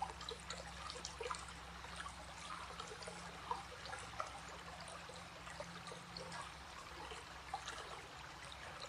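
A small stream trickling and babbling steadily, with a soft continuous wash of flowing water.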